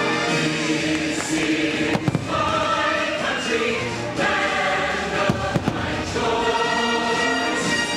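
Fireworks show soundtrack of a choir singing with orchestral accompaniment, broken by sharp firework bangs about two seconds in, around four seconds, twice between five and six seconds, and once more near the end.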